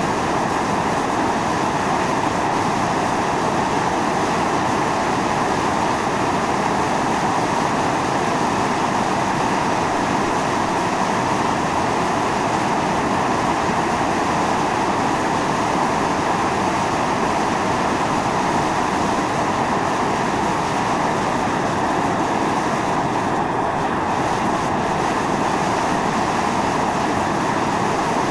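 Steam venting from a volcanic fumarole: a loud, steady, unbroken rushing hiss.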